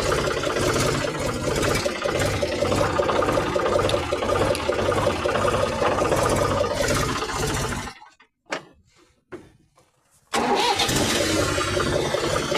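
Tractor engine running loud with a pulsing low chug, dropping out for about two seconds near the middle with only a few clicks, then running again.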